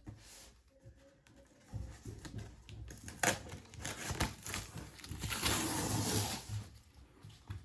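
Packaging being handled and opened: a few sharp knocks, then a longer stretch of paper or plastic rustling about two-thirds of the way in.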